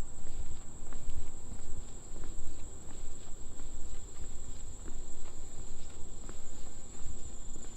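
Insects such as crickets giving a steady, high-pitched unbroken trill, with footsteps and low rumbling from walking along the trail underneath.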